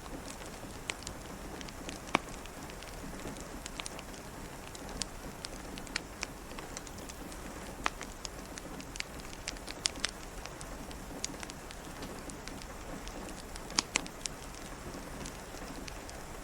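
Steady rain with a crackling log fire: an even hiss of rain overlaid by irregular sharp pops and crackles, a few of them louder.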